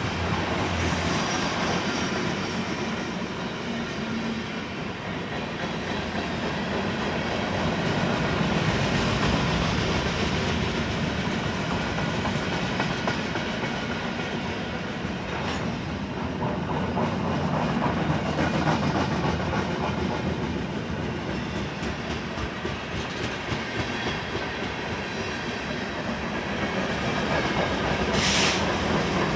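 Union Pacific manifest freight train's cars rolling past: a steady wheel-on-rail rumble with clickety-clack over the rail joints, swelling and easing. There is a brief high-pitched sound near the end.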